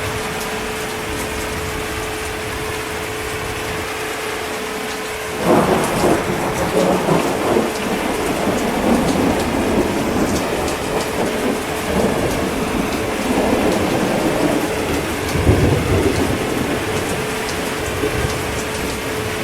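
Steady heavy rain, with thunder breaking in suddenly about five seconds in and rumbling on unevenly, with a louder peal near the end.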